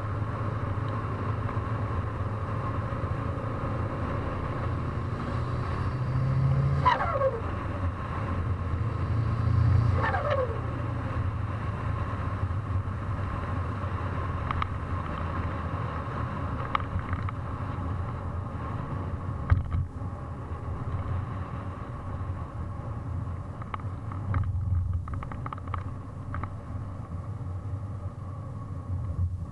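Mitsubishi Lancer Evolution VIII MR's turbocharged four-cylinder engine idling, blipped twice a few seconds apart. Each blip is followed by a falling whistle and flutter from the turbo as the throttle shuts.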